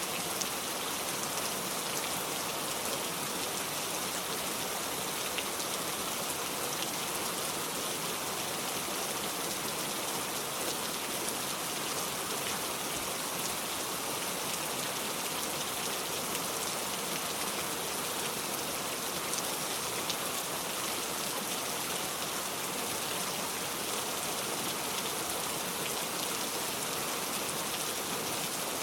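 Steady rain falling and pattering on a surface, an even hiss of drops with no thunder.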